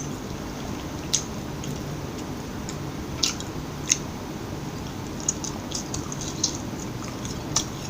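Close-up chewing of McDonald's fast food, with scattered small wet mouth clicks, more frequent in the second half.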